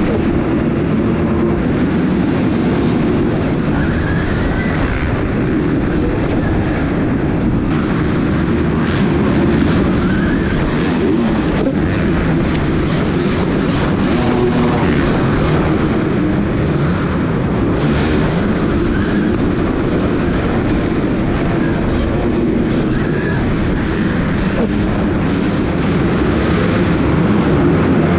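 Dirt bike riding on a track: loud, steady motor and riding noise, with faint short rising whines coming back every few seconds.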